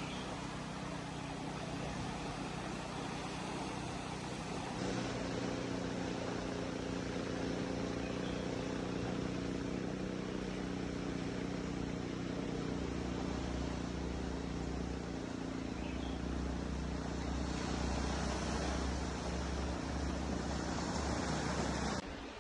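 A motor vehicle's engine running steadily under a hiss of road or wind noise. The sound changes abruptly about five seconds in, where a steady engine hum comes forward, and a deeper rumble joins about halfway through.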